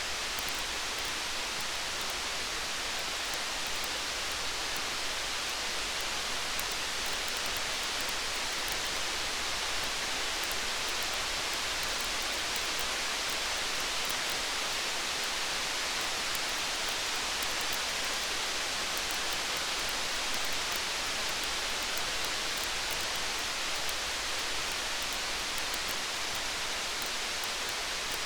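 Steady rain falling, an even hiss, with faint small crackles of a campfire scattered throughout.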